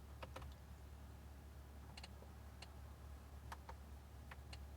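Faint, scattered clicks of the car's infotainment controls being operated as the menus are paged through, about eight in irregular pairs and singles, over a faint low hum in the quiet cabin.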